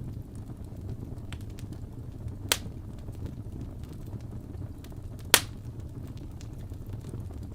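Wood fire burning in a fireplace: a steady low rumble with scattered small crackles and two loud sharp pops, about two and a half and five and a half seconds in.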